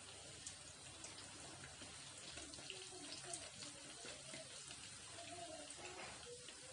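Medu vada frying in hot oil in a kadai: a faint, steady sizzle with scattered tiny crackles.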